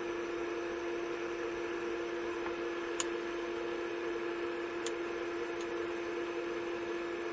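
Steady machine hum with a constant tone, broken by three light clicks, the sharpest about three seconds in.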